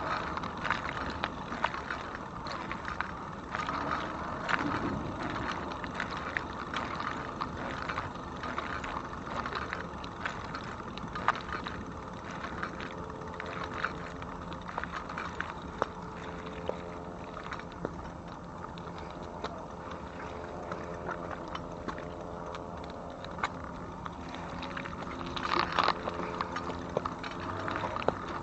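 E-bike ridden along a trail: tyre noise with frequent small clicks and rattles, and a steady hum running through the middle of the stretch.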